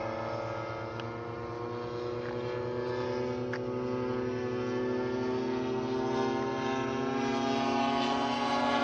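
Twin DLE 35cc single-cylinder two-stroke gasoline engines of a large radio-controlled Cessna 310 model running steadily with propellers turning, getting gradually louder toward the end.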